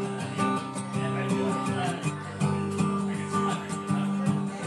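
Gibson J-45 acoustic guitar playing the closing instrumental bars of the song, with notes plucked in an even rhythm.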